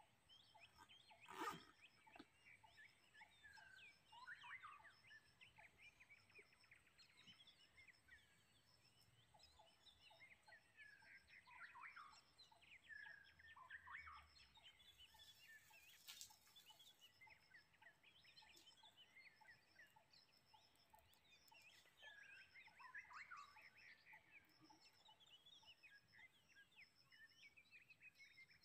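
Faint chorus of wild birds chirping and calling, many short overlapping calls, over a steady high insect-like trill. A single click sounds about a second and a half in, and a short hiss comes about halfway through.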